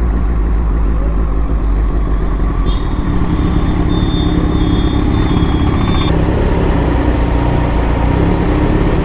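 Kawasaki Z900's inline-four engine running under way, with heavy low wind rumble on the microphone. A steady high tone sounds for about three seconds in the middle.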